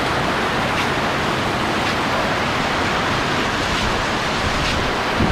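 Heavy rain pouring in a storm with strong wind, a steady, even rush of noise.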